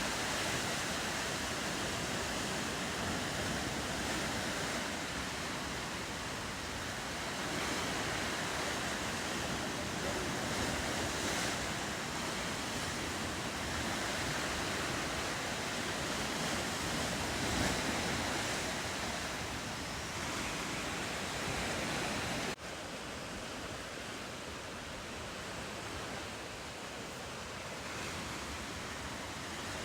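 Ocean surf washing steadily, with wind on the microphone. The level drops suddenly about three-quarters of the way through.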